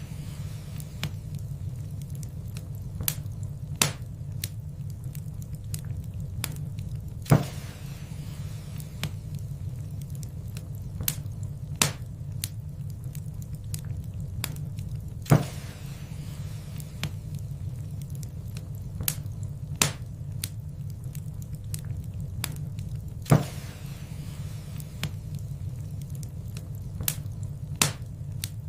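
Wood fire in a fireplace burning with a steady low rumble, crackling and popping irregularly, with a few sharp louder pops about eight seconds apart.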